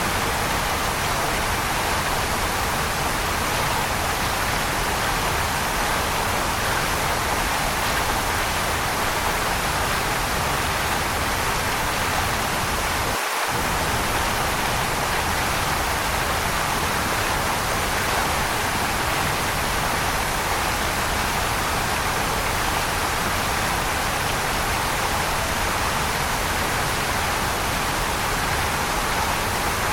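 Waterfall: falling water rushing as a steady, even wash of noise, with a brief dropout in the low rumble about thirteen seconds in.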